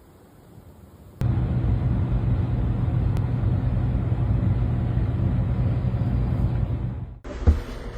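A motor vehicle running with a steady low rumble. It starts suddenly about a second in and cuts off near the end, followed by a single thump.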